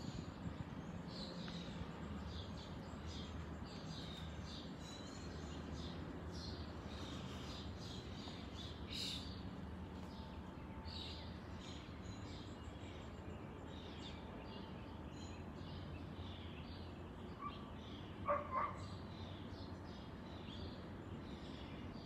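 Small birds chirping in the trees: many short, high chirps repeating throughout over a steady low background rumble. A brief, louder, lower-pitched sound comes twice in quick succession about four-fifths of the way in.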